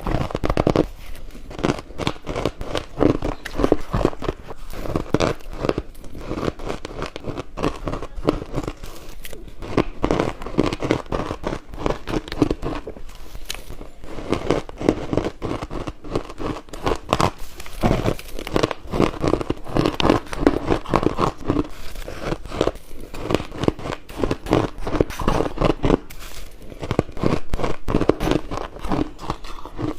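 Ice being bitten and chewed close to the microphone: dense, continuous crunching and crackling of ice cubes breaking between the teeth.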